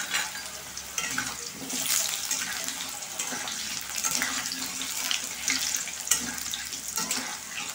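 Potato wedges frying in hot oil in a wok: a steady sizzle with scattered crackles, as a spatula turns them.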